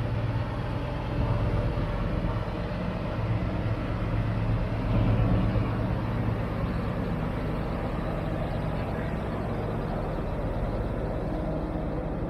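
Class 60 diesel locomotive passing close by at the head of a freight train. Its engine runs with a steady low hum that is loudest about five seconds in as it goes by, then gives way to the rumble of hopper wagons rolling past on the rails.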